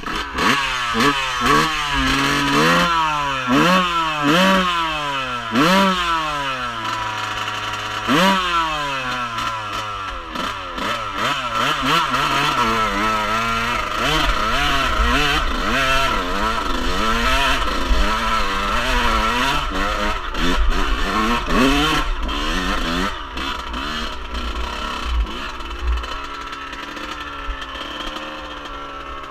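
Off-road vehicle engine revving up and down repeatedly: short quick rises and drops in pitch, a long fall, then more rising and falling revs that even out near the end.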